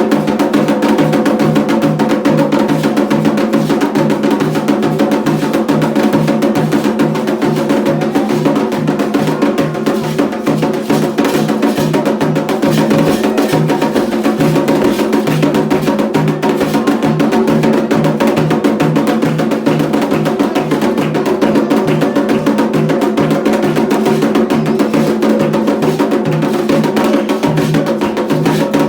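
Candomblé ritual drumming: drums and percussion playing a steady, unbroken rhythm.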